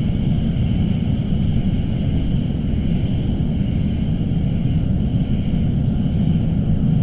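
Suspense ambience: a steady, dense low rumble with a faint high hiss above it, unchanging throughout.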